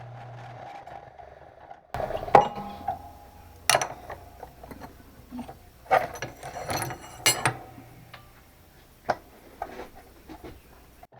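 A steady hum, then about two seconds in, irregular knocks and clinks of hard objects being handled and set down, a few with a brief metallic ring.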